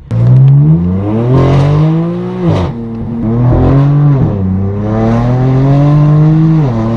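Straight-piped BMW M4 F82's twin-turbo inline-six, fitted with an AWE Track exhaust, pulling hard under acceleration: the pitch climbs, drops sharply at three upshifts, and climbs again each time, with a brief crackle at the first shift.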